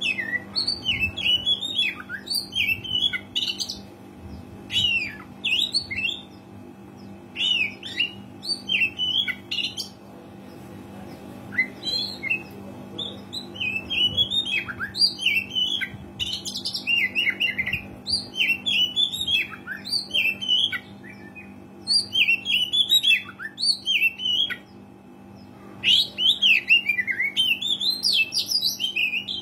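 Oriental magpie-robin singing in full song, in bouts of rapid, varied whistled phrases broken by short pauses, over a faint steady hum.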